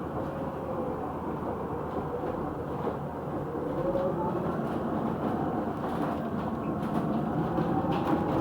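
Cabin noise of a moving single-deck electric bus: steady road and running noise with a faint whine that wavers in pitch, and a few sharp rattles near the end.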